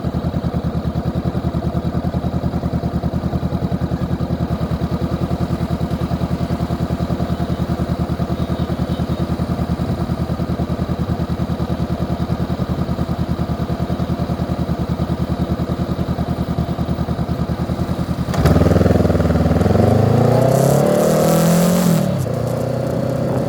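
Honda CB 500X parallel-twin motorcycle engine idling with an even, rapid pulse. About 18 seconds in it opens up and accelerates, its pitch climbing and dropping through the gear changes.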